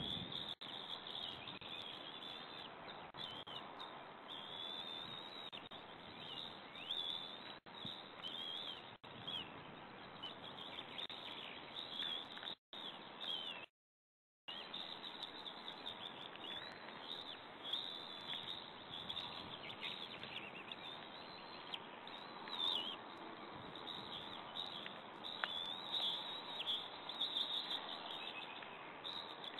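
High, short bird chirps and calls, repeated throughout over a steady background hiss; the sound cuts out briefly about halfway through.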